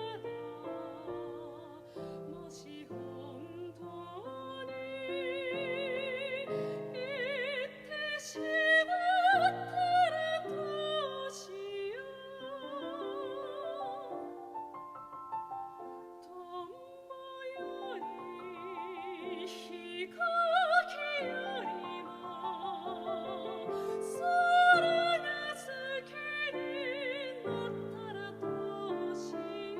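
Soprano singing a Japanese art song in classical style with wide vibrato, accompanied by piano; the voice rises to its loudest, highest phrases about nine seconds in and again near twenty-one and twenty-five seconds.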